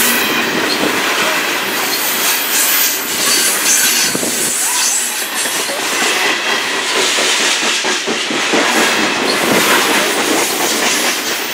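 Cars of a CSX coal train rolling past close by: a loud, steady rolling and rattling noise with the wheels clicking over the rail joints.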